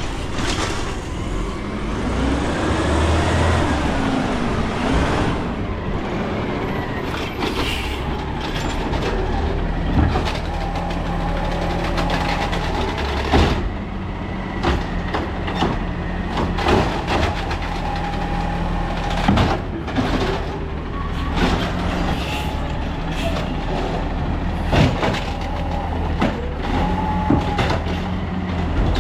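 Peterbilt 320 garbage truck's engine running under an Amrep automated side-loader body, with hydraulics whining up and down in pitch over the first few seconds. Repeated sharp bangs and clanks of metal follow, over a steady whine.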